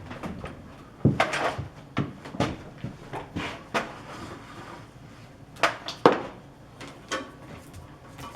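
Irregular knocks and clunks, about eight of them with uneven gaps, from heavy shop equipment being handled and shifted about. The loudest come about a second in and near six seconds in.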